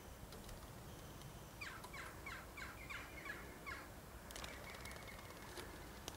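A bird calling a quick run of about seven short notes, each dropping in pitch, starting about a second and a half in. Faint background hiss with a few light ticks.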